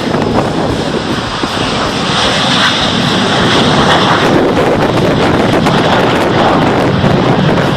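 Airplane flying past overhead, its engine noise building steadily louder.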